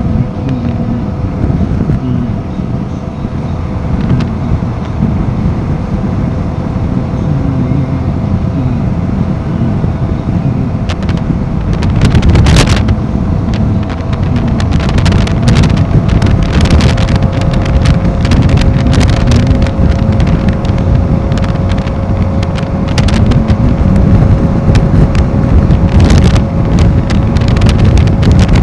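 Royal Enfield Himalayan 450's single-cylinder engine running steadily under way, with heavy wind buffeting on the microphone.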